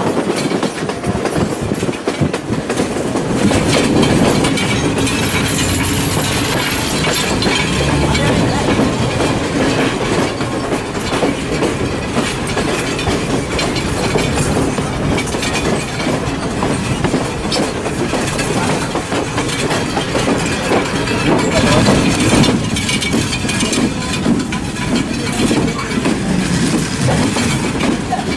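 Passenger train running along the track, heard from on board: a steady rumble with the wheels clacking over the rail joints.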